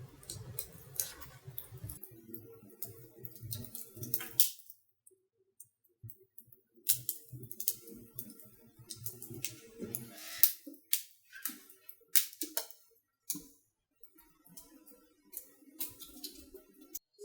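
Wood fire crackling in a fireplace on its first firing: irregular sharp pops and snaps, some loud, over a low background hum.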